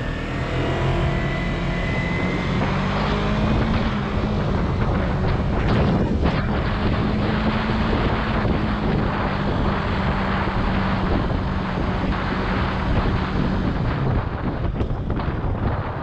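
Yamaha R3's parallel-twin engine running at a steady cruise under heavy wind noise on the microphone. The pitch climbs a little early on and falls away near the end as the bike slows.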